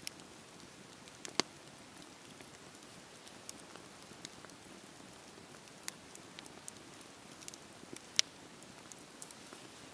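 Wood fire crackling in a fireplace: a steady soft hiss with scattered sharp pops, two louder pops about a second and a half in and about eight seconds in.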